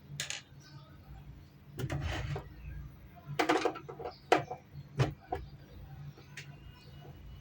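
Handling noise: several sharp clicks and knocks with some rustling, the loudest a little past the middle, over a faint low steady hum.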